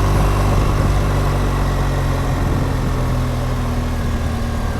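BMW R1200GSA motorcycle's flat-twin boxer engine running at a steady low note while riding, under wind and road noise, easing off slightly toward the end.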